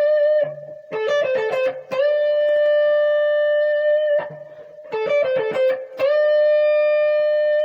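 Electric guitar playing a blues lick: a quick flurry of short staccato notes, then a single note bent up to the root and held ringing for about two seconds. The phrase plays twice.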